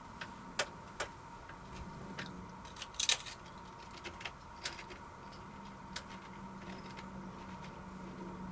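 Scattered sharp crackles and clicks of thin, lightly ridged potato crisps being handled and bitten, the loudest crackle coming about three seconds in, over a faint steady hum.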